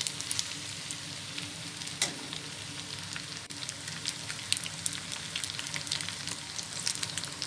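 Pasta with tomato sauce and spices frying in a pan: a steady sizzle with scattered crackles, and a single knock about two seconds in.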